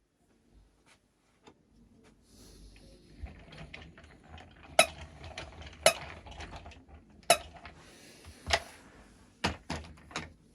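Fisher-Price Lil Snoopy pull-along toy dog clattering as it is pulled along: a light plastic rattle from its moving legs and wheels, broken by about half a dozen sharp, irregular clacks. It starts about three seconds in.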